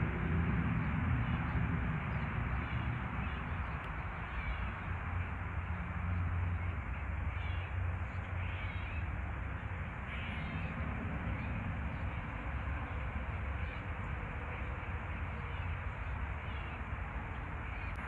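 Outdoor background: a steady hiss over a low rumble, with faint short bird calls now and then.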